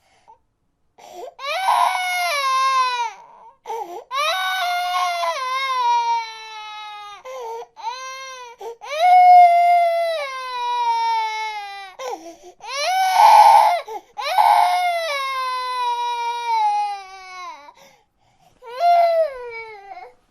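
A baby crying: a string of long, high wails, each falling in pitch, with short gaps for breath between them.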